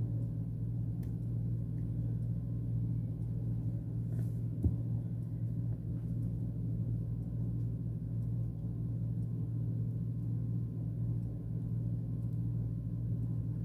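Steady low hum, with a single faint click about four and a half seconds in.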